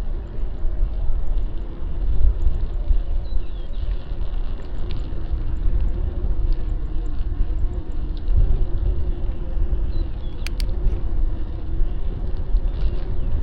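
City street traffic heard from a moving bicycle: a heavy low rumble with a steady hum over it, and a brief sharp click about ten seconds in.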